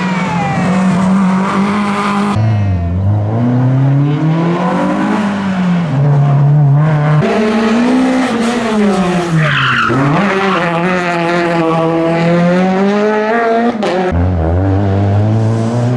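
Rally car engine revving hard, its pitch climbing and then dropping sharply at each gear change, about three times. Near the middle it dips low and picks up again as the car slows for a corner and accelerates away.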